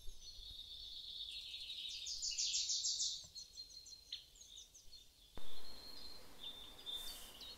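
Forest birdsong: several small birds chirping, with a rapid high trill of about eight notes a second between one and three seconds in. A short burst of noise comes a little past five seconds, after which a faint steady hiss sits under the chirps.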